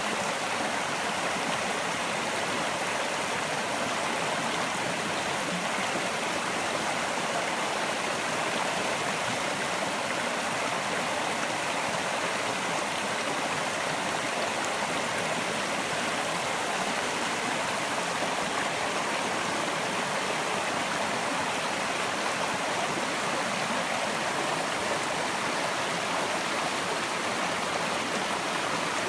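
Rainforest creek running over rocks: a steady rush of flowing water.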